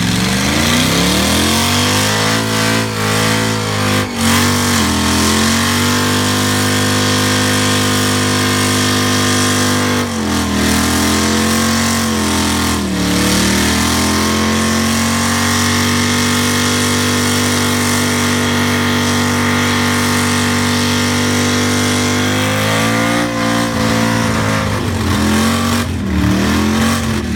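A muscle car engine revved up and held at high revs for long stretches, dropping briefly a few times and climbing back up.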